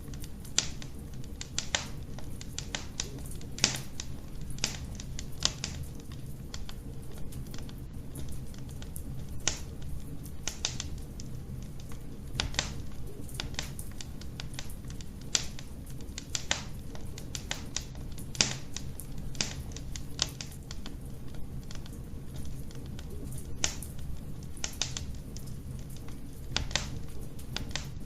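Wood fire burning in a fireplace, crackling and popping in irregular sharp snaps over a steady low rumble of the flames.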